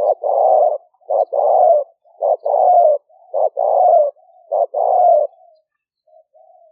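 Spotted dove cooing: a run of about five two-part phrases, each a short note and then a longer one, roughly one a second, followed by a couple of soft short notes near the end.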